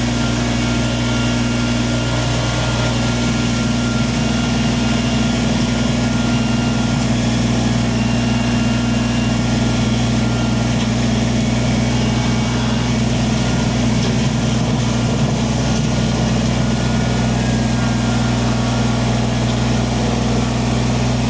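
Kubota compact tractor's diesel engine running at a steady speed while the tractor grades stone with its front loader bucket.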